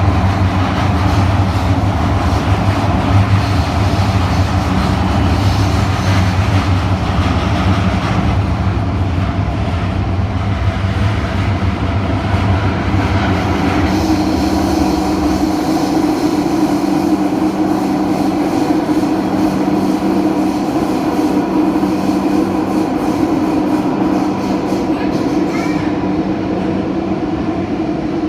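Kawasaki-Sifang CT251 metro train running, heard from inside the car: steady running noise with a heavy low rumble, which the uploader puts down to flat wheels. The rumble cuts out about halfway through, while a steady motor hum grows louder.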